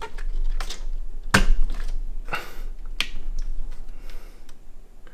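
Scattered clicks and knocks of hands working a part into a cramped Lian Li Q58 small-form-factor PC case, the loudest knock about a second and a half in; the fit is very tight. A steady low hum runs underneath.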